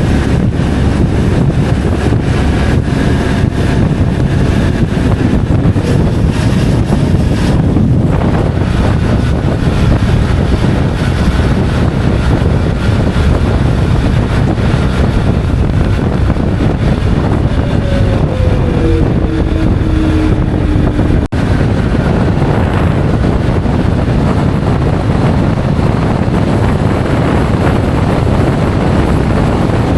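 Wind rushing over the microphone of a moving motorcycle, loud and steady, with the motorcycle's engine running underneath.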